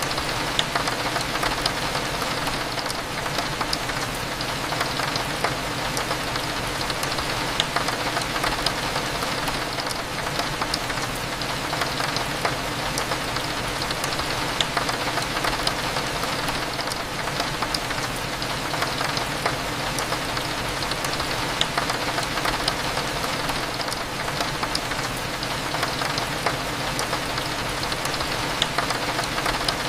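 Steady rain with many small drop ticks, over a low, even cafe hum.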